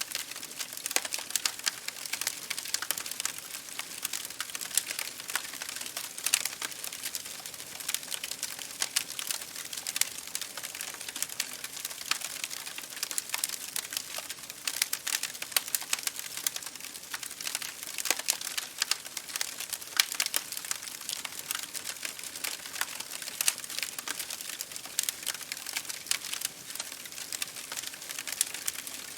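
Wood fire crackling in a fireplace, with many small irregular pops and snaps, over a steady hiss of rain falling on a window.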